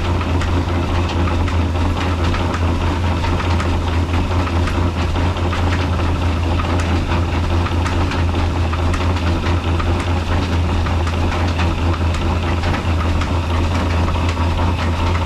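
Old black Ruston-type single-cylinder diesel engine driving a flour mill, running steadily with a deep, even beat.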